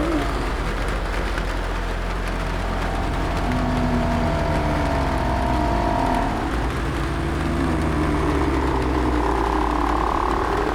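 Sound-design zombie ambience: a steady hiss of rain on a roof over a low rumble, with drawn-out zombie moans held at a steady pitch from about three seconds in and again near the end.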